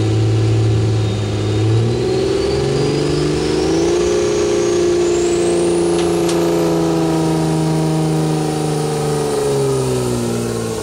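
Diesel pulling truck at full throttle dragging the weight sled. The engine note climbs over the first few seconds and holds high, then sags near the end as the load smothers it down. A thin high whistle rises steadily above the engine through the first half.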